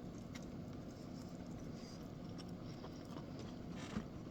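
Quiet chewing of a fried chicken tender, with a few faint small clicks over a steady low background hum and a short rustle near the end.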